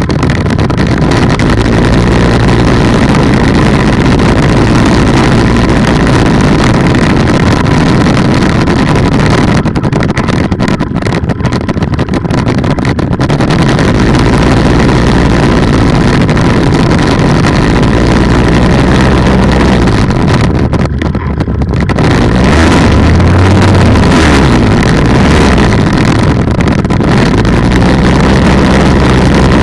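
Polini 190 two-stroke engine on an ultralight trike running steadily with its propeller turning, loud and close, its pitch shifting with the throttle about halfway through and stepping up a little past two-thirds of the way in.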